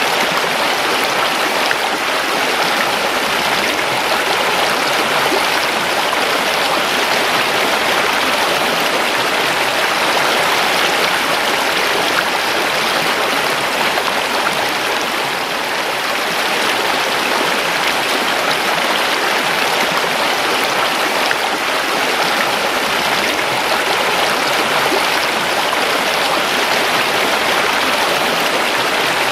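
River water running and babbling over rocks in a steady, even rush.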